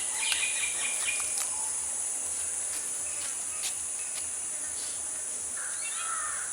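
Steady, unbroken high-pitched drone of insects, with a few short bird calls in the first second and a rougher call near the end.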